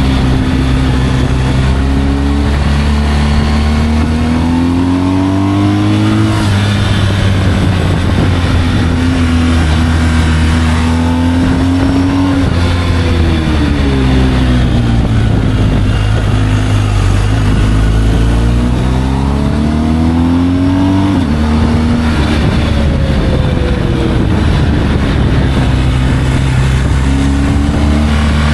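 Motorcycle engine while riding: the pitch climbs as it accelerates and drops sharply at gear changes, about six seconds in and again about twenty-one seconds in, with a slower fall in between as it eases off.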